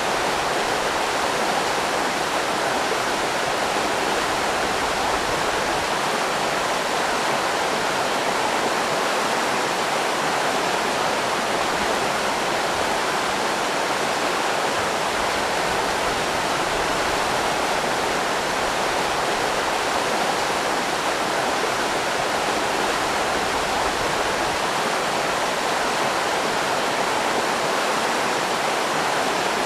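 River rapids rushing steadily, an even unbroken wash of water.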